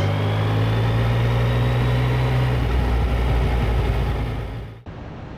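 Yamaha CP3 three-cylinder motorcycle engine running at a steady, nearly even speed while the bike is ridden, its low note holding level. It fades near the end and cuts off suddenly about five seconds in.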